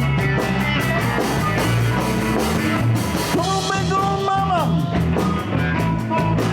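Live blues band playing: electric bass and drums keep a steady beat while a lead instrument plays long held notes that bend and fall away.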